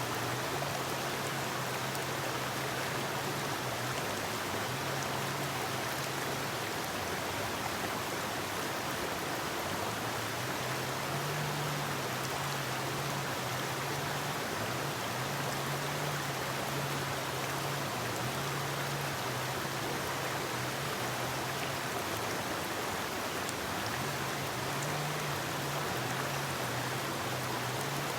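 Forest river water flowing in a steady rush, with a low hum that drops out for a few seconds early on and returns.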